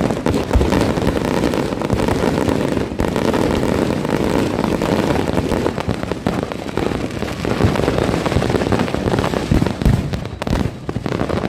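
Dense, continuous crackle and bangs of many fireworks and firecrackers going off at once, a steady barrage without a break.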